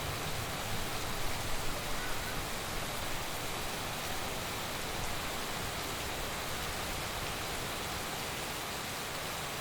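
Heavy rain falling steadily, a dense even hiss, with a few louder spatters between about one and three seconds in.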